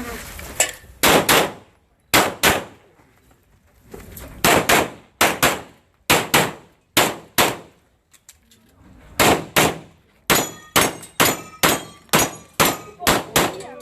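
Pistol fired in a timed shooting drill: about thirty sharp shots, mostly in quick pairs and strings, with short pauses between groups as the shooter moves from target to target. The later shots are followed by a faint metallic ring.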